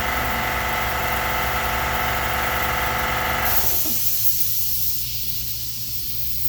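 A machine-tool spindle motor running steadily while machining a cylinder head, then shutting off about three and a half seconds in, leaving a steady high hiss and a low hum.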